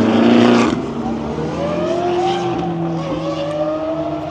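A supercar's engine and exhaust, loud as it passes close in the first second, then pulling away with its pitch rising steadily as it accelerates.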